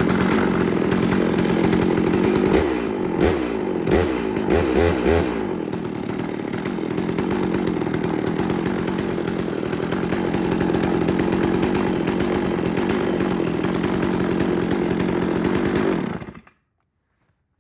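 Holzfforma G660 90 cc two-stroke chainsaw engine running, its pitch rising and falling a few times about three to five seconds in, then running steadily until it cuts off suddenly near the end.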